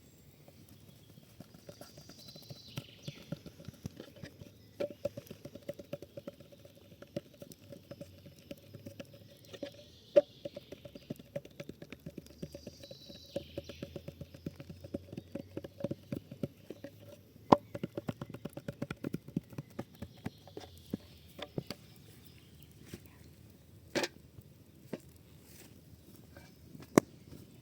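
Campfire crackling: a dense run of irregular small clicks, busiest in the middle, with a few louder sharp pops.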